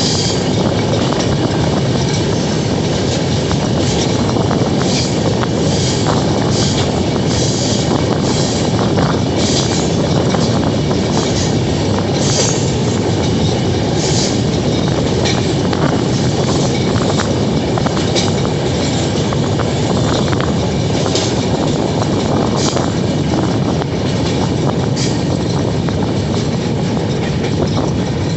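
Train running on the rails: a steady rumble with irregular sharp clicks from the wheels passing over rail joints.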